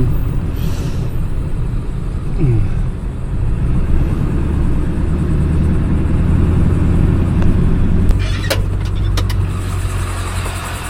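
Motor vehicle engine running, a steady low rumble, with a few sharp clicks about eight seconds in.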